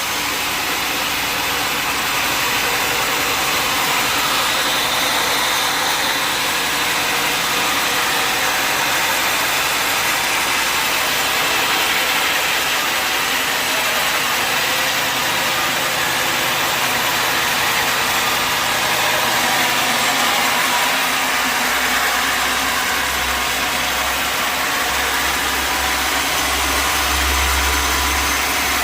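Sawmill machinery running steadily, a dense mechanical noise. A deep low hum joins it about two-thirds of the way through.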